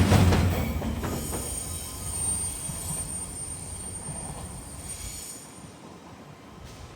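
A train running past and away, its rumble fading steadily, with a thin high squeal from the wheels on the rails from about one to four seconds in.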